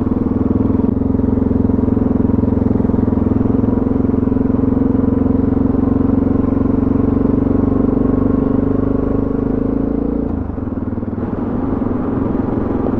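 Suzuki DR650's single-cylinder engine running steadily as the bike rides along. The engine note drops and dips briefly about ten seconds in, then picks up again.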